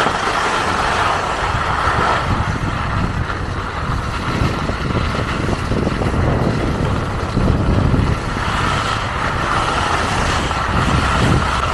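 Wind rushing over the camera microphone with skis hissing over snow during a downhill run, a steady loud rush with a deep rumble underneath.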